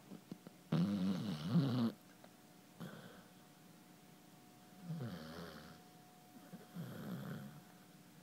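Basset hound snoring: a loud snore about a second in lasting about a second, a brief one after it, then two softer snores in the second half.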